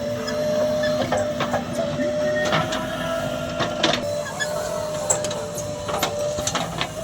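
Heavy diesel earthmoving machinery running, with a steady whine throughout, a lower drone that stops about four seconds in, and scattered sharp clanks and knocks.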